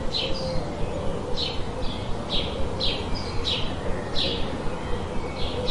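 Forest birds calling: a short, high chirp repeated about twice a second, with a fainter, lower wavering call beneath it, over a steady hiss of noise.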